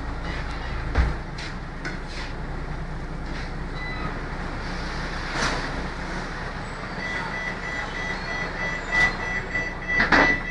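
Scania K94UB bus with its Scania D9C diesel engine running steadily, with a single knock about a second in. About two-thirds of the way through, a high electronic beeping starts and carries on, with a few knocks near the end.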